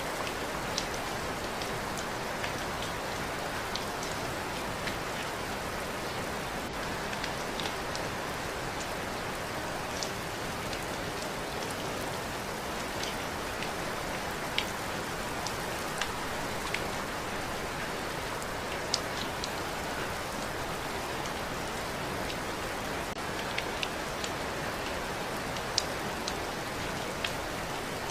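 Steady rain falling, with a constant hiss and scattered sharper drops striking a surface every second or so.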